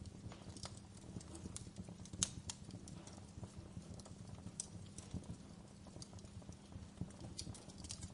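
Fireplace crackling: irregular pops and snaps over a low steady rumble, with one sharper pop about two seconds in.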